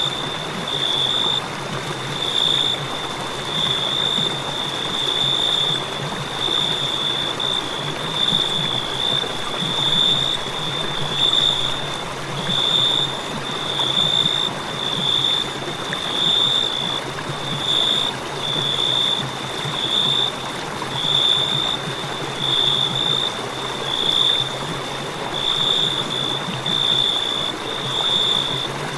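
Crickets chirping in a continuous high trill that swells and dips about once a second, over a steady low hiss.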